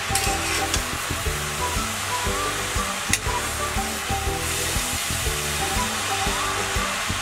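Grated carrots sizzling in hot ghee in a steel kadhai, stirred with a metal spatula that clicks against the pan a few times. Background music plays throughout.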